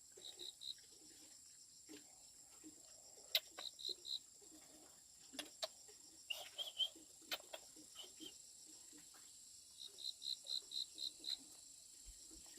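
Insects calling: a steady high-pitched drone with short runs of quick chirps, the longest run of about seven chirps near the end. A few sharp clicks cut through, the loudest about three and seven seconds in.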